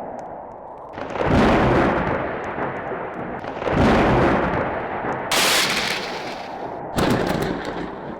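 Four loud rumbling booms, each fading away over a second or two, over a steady background rush.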